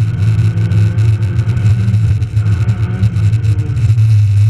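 Rally car's engine running hard at speed, heard from inside the cabin as a loud, steady low drone, with a brief dip in level a little past two seconds in.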